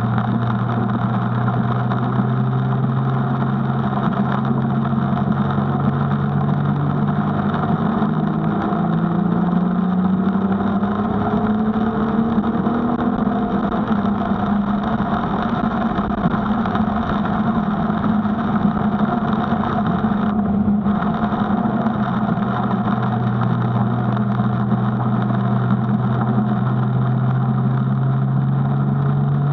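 Nissan GT-R's twin-turbo V6 heard from inside the cabin, its note rising in pitch as the car accelerates, with a shift about eight seconds in. The engine then eases off mid-way and climbs again near the end, over a steady hiss of tyres on the wet track.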